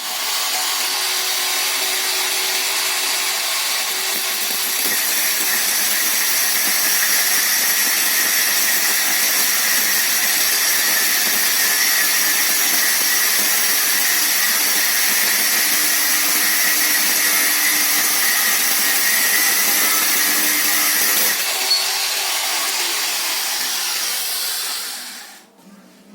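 A power tool running steadily, a loud noise mostly in the high range; its top end drops away about 21 seconds in, and it winds down and stops near the end.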